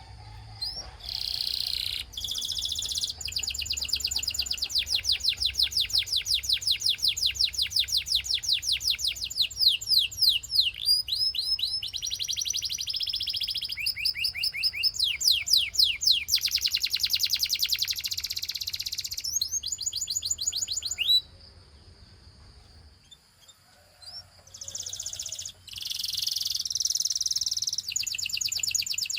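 Canary singing: long runs of fast, high trills, each made of rapidly repeated notes, changing speed from one run to the next. There is a break of a few seconds about three-quarters through before the trills resume.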